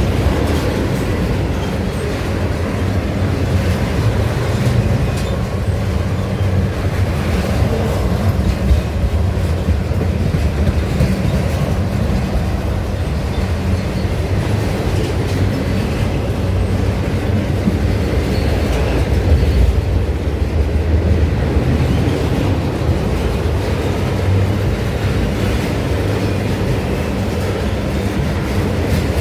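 Freight train cars rolling steadily past close by, wheels rumbling and clacking over the rail joints.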